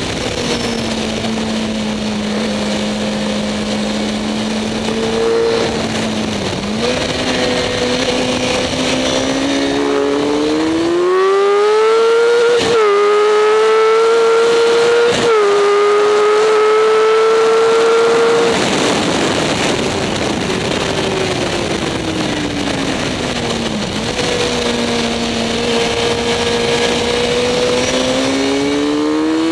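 Sport motorcycle engine heard from on the bike at speed on a race track. It holds a steady note, then accelerates hard with two quick upshifts about halfway through, shuts off and winds down, and picks up again near the end. Wind rush over the bike runs underneath throughout.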